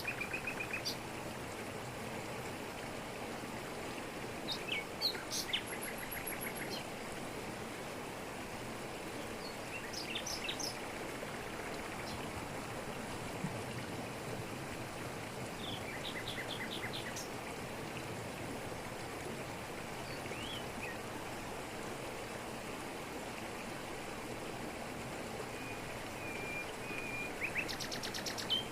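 Steady rush of a jungle waterfall falling over rocks. Over it, forest birds call every few seconds in short bursts of quick chirps, five or so times, with the last burst near the end.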